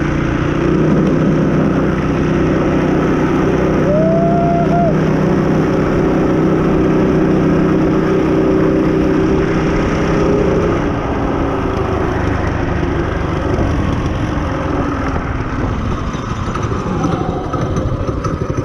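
Mossimo MB200 trail bike's small engine running at a steady pitch, with wind noise; about eleven seconds in the steady tone fades into rougher, noisier running.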